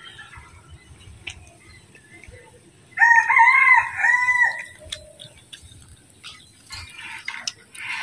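A bird's crowing call, like a rooster's crow: several loud arched notes that rise and fall, lasting about a second and a half, starting about three seconds in.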